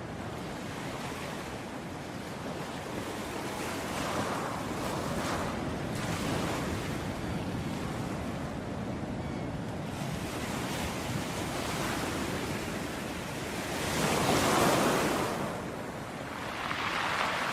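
Ocean waves breaking on a beach, a steady wash of surf that swells with each wave. The biggest wave breaks about two thirds of the way through, and another near the end. Wind noise runs underneath.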